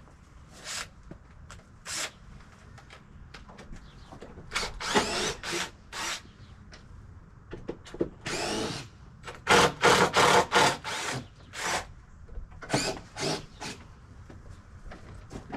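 Cordless power drill/driver working deck screws in short trigger bursts, the motor whining up in pitch on each pull, with a quick run of bursts near the middle.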